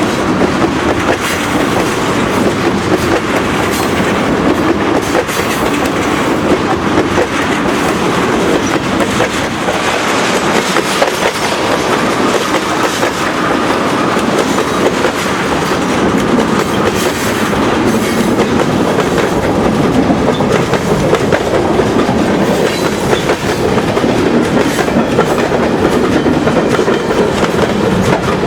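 Mixed freight train's cars rolling past at close range, steel wheels clacking over the rail joints in a steady, continuous rumble.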